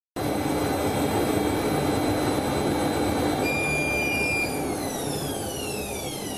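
Beko washing machine spinning with a steady motor whine over a drum rumble; about three and a half seconds in, the whine starts falling in pitch and the sound slowly fades as the drum slows down.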